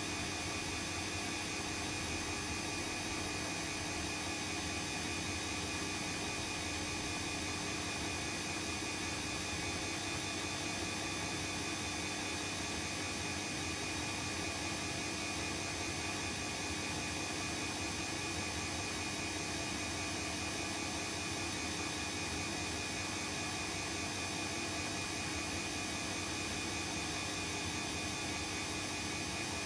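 Bosch WAE24162GB/03 washing machine running steadily through its rinse-and-spin cycle: a constant motor hum with a steady whine over a hiss, unchanging throughout.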